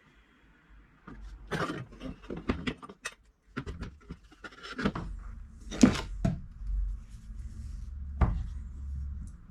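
Irregular knocks, taps and rubbing as an axle with bearings is fitted into its bearing beds on a metal frame, with a low steady hum setting in about halfway through.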